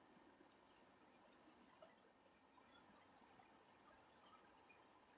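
Faint, steady high-pitched trilling of crickets, with a brief dip a couple of seconds in.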